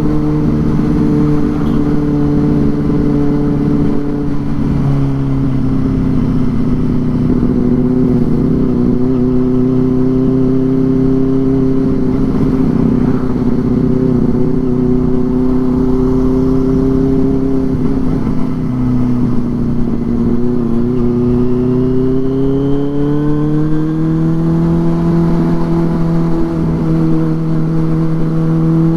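Benelli 600i inline-four engine through an aftermarket IXIL exhaust while riding, holding steady revs with two slight dips, then climbing in pitch about three-quarters of the way through and holding at the higher revs.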